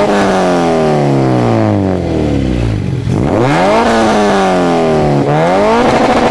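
Honda K-series four-cylinder engine of an Acura RSX being free-revved at a standstill. The revs fall away from high for about three seconds, are blipped up twice and drop again, then are held steady near the end.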